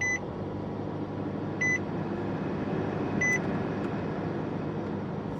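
Car engine idling steadily just after starting, a little higher than its usual idle. A dashboard warning chime sounds three times, about every second and a half.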